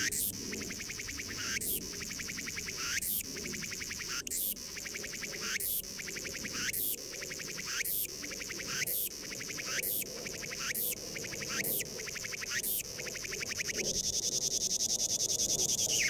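A cicada singing: a pulsing call repeated in phrases about every second or so, the phrases coming slightly faster as it goes on, then turning into a steady, fast-pulsing buzz near the end.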